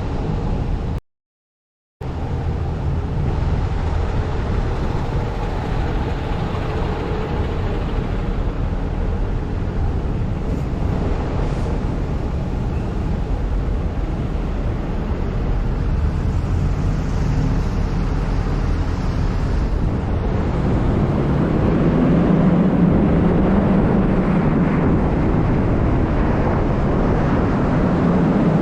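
Car driving on city roads: steady engine and tyre rumble. The sound drops out completely for about a second just after the start, and grows a little louder about three quarters of the way through.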